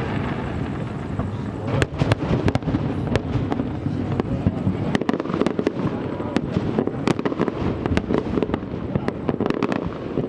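Aerial fireworks display: many sharp bangs and crackles in quick succession, coming thicker from about two seconds in, over a steady low rumble.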